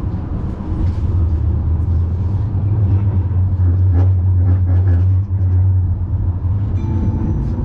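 Tram running between stops, heard from inside: a steady low rumble of the motors and wheels on the rails that swells in the middle.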